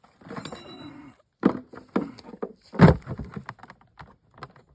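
Pieces of firewood knocking and thudding together as they are handled, a quick irregular run of sharp knocks, the loudest about three seconds in.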